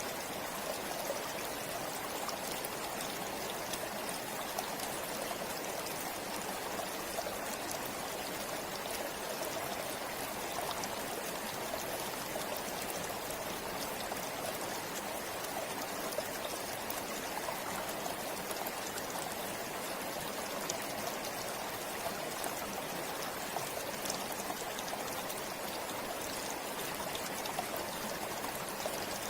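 A forest river flowing steadily: an even rush of water with small splashes and trickles over stones.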